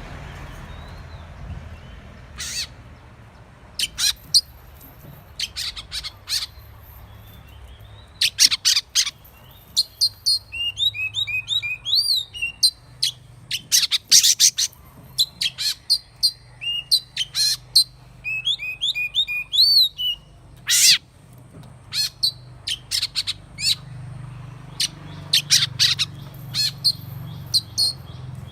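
Oriental magpie-robin singing: loud, sharp, clipped notes scattered throughout. Twice it breaks into quick runs of rising-and-falling whistled notes.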